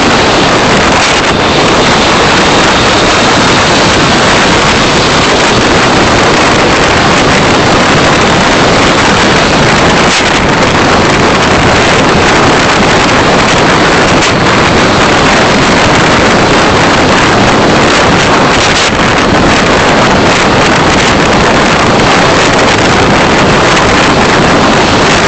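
Steady, loud rushing noise of a car on the move: road and wind noise picked up by a dashcam's microphone.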